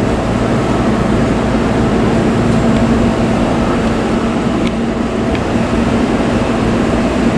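Seibu 6000 series electric train pulling slowly into the platform: a steady rumble of wheels on rail with a low, even motor hum, and a couple of faint clicks a little past halfway.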